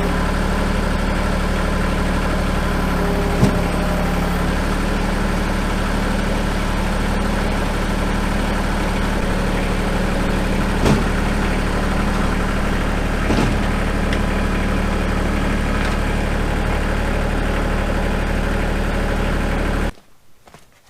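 Tractor engine idling steadily, with a few light knocks, then shut off suddenly near the end.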